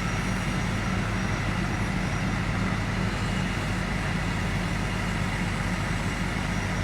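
Large truck engine, most likely a fire engine's, running steadily at a constant speed with an even low hum.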